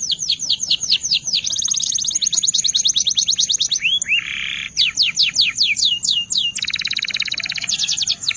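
Belgian canary (canário belga) singing: long runs of fast, high descending notes. A short buzzy phrase comes about four seconds in, and a dense rolling trill near the end.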